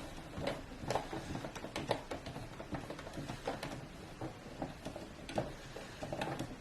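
Irregular small clicks and taps of computer parts and tools being handled during a PC build.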